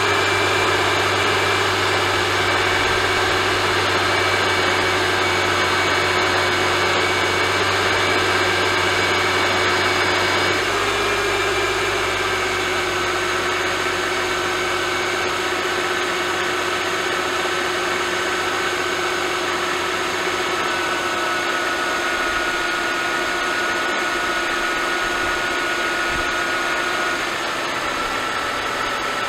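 Mercedes-Benz M272 3.5-litre V6 running at fast idle shortly after a cold start, with no rattle now that the oil pick-up tube O-ring has been renewed. The idle steps down in pitch a few times as it settles, about a third of the way in, around two-thirds of the way in, and near the end.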